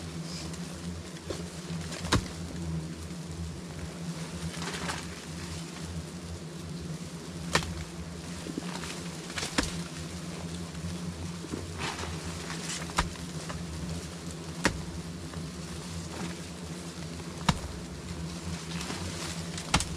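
A mass of bees buzzing steadily around a wild hive, with a sharp knock or click every couple of seconds.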